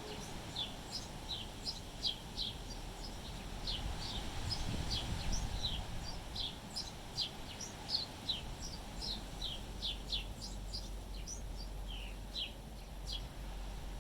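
Small birds chirping over and over: many short, high chirps that slide downward, two or three a second. Wind rumbles on the microphone underneath.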